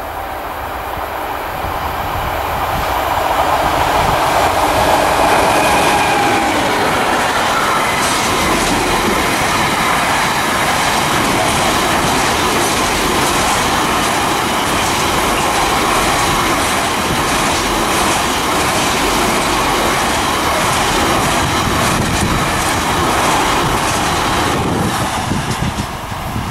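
A freight train of intermodal wagons approaches and rolls past close by, building to a loud, steady rumble over the first few seconds. The wheels click regularly on the rails while the wagons go by. The sound drops off near the end as the train draws away.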